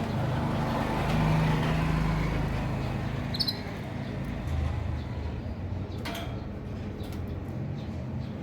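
Motor vehicle traffic running past, with a low engine hum that swells about one to two seconds in and then eases. A single short high chirp about three and a half seconds in, and a sharp click about six seconds in.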